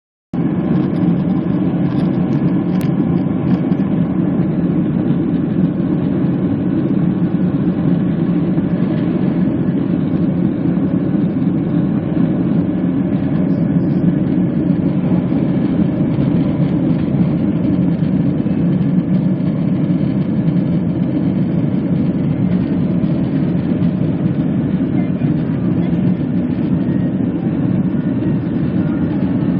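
Steady, loud rumble of a jet airliner's engines and airflow heard from inside the passenger cabin.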